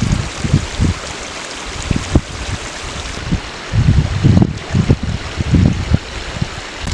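Wind buffeting the microphone: irregular low rumbling gusts, heaviest about four to six seconds in, over a steady rushing hiss.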